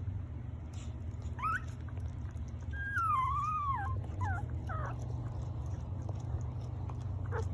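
Newborn Chiweenie-Labradoodle puppies whimpering and squeaking. A short rising cry comes about a second and a half in, then a longer wavering cry about three seconds in, followed by a few short cries. A steady low hum runs underneath.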